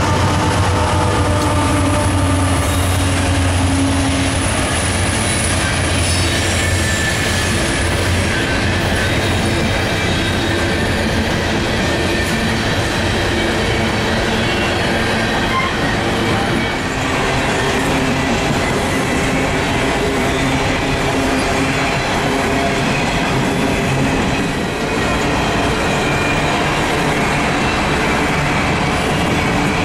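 Mid-train BNSF diesel locomotives, a GE Dash 9-44CW among them, pass under power with a low engine drone that fades after the first few seconds. Then a string of open-top hopper cars rolls by with steady wheel and rail noise and high, drawn-out wheel squeal.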